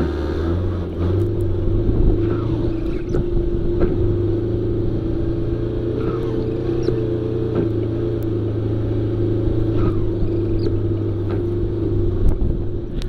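Off-road vehicle engine running at a steady speed, its pitch holding nearly constant with a slight rise and fall in the middle.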